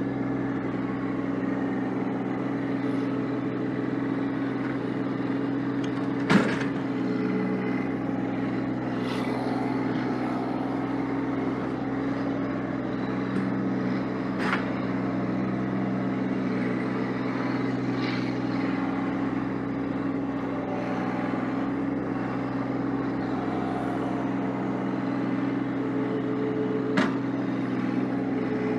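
Massey Ferguson 1725 sub-compact tractor's diesel engine running steadily while clearing snow. A sharp clunk comes about six seconds in, and lighter knocks come about halfway through and near the end.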